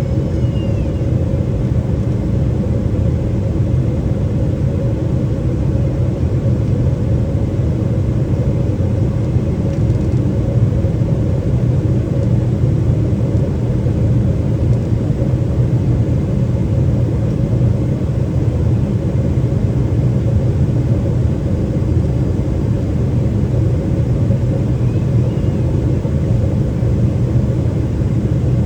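Steady low rumble inside the cabin of a Boeing 777-300ER in descent: the airflow and the noise of its GE90-115B engines, unchanging throughout.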